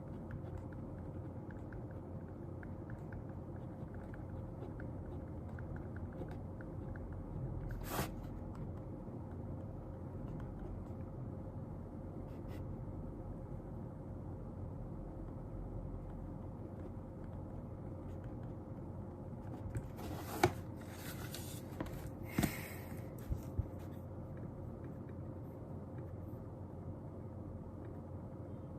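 Quiet small-room ambience of someone studying at a desk: a steady low hum with a faint steady tone. A single click comes about eight seconds in, and a short run of clicks with a brief rustle about two-thirds of the way through.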